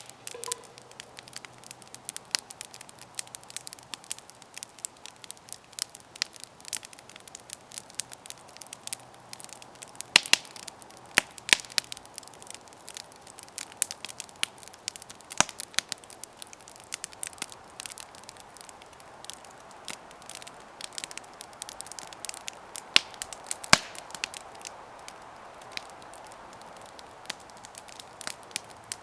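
Campfire burning: wood crackling with irregular sharp pops, a few louder snaps among them, over a faint steady hiss of the flames.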